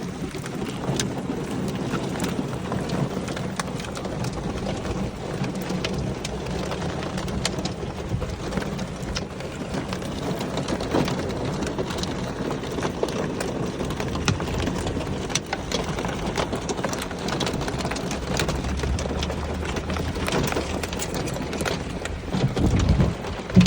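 Thunderstorm with hail: a steady downpour with a dense patter of sharp ticks from drops and hailstones striking surfaces. A low rumble of thunder builds over the last few seconds, with a couple of loud knocks near the end.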